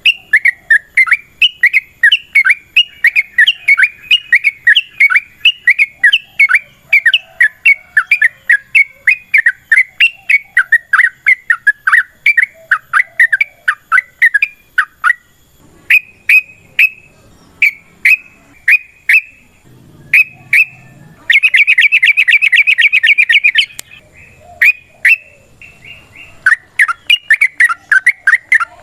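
Yellow-vented bulbul (trucukan) song: a long, fast run of sharp chattering notes, several a second. About halfway through it thins to separate notes, then comes a rapid trill of about two seconds, and the chatter picks up again near the end.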